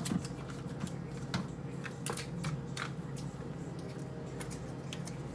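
Scattered light clicks and taps from small objects being handled and set down, over a steady low hum.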